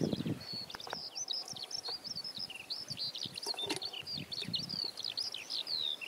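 A songbird singing a long, unbroken run of quick, varied chirps and trills. At the start water is poured from a flask into a metal camping pot, with a few light knocks as the flask and pot are handled.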